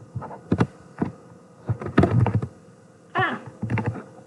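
Typing on a computer keyboard: scattered, irregular keystrokes with a quicker run about two seconds in. A brief hummed voice sound about three seconds in.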